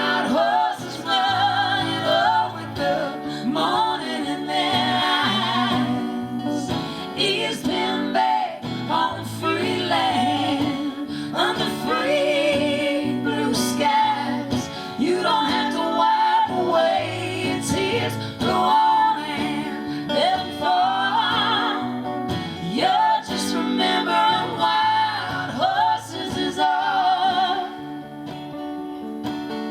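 A folk song performed live: sung vocals with vibrato over strummed acoustic guitar. Near the end the voice stops and the guitar carries on alone.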